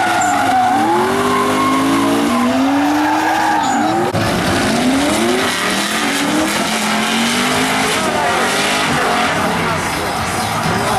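Drift cars' engines revving hard, the pitch climbing and falling again and again, over a steady wash of tyres squealing and skidding through the slides.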